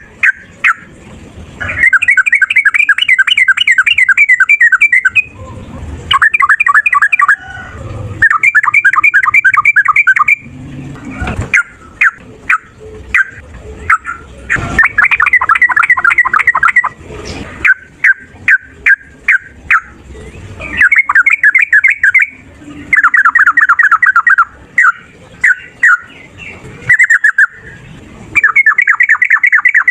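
Yellow-vented bulbul (trucukan) singing in long, fast rattling runs of quick repeated notes, one burst after another, with short sharp call notes in between.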